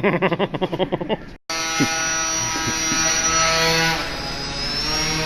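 After a rapid pulsing sound that cuts off abruptly about a second and a half in, a small electric RC airplane's motor and propeller run with a steady, many-toned whine. The whine drops slightly a little before the end.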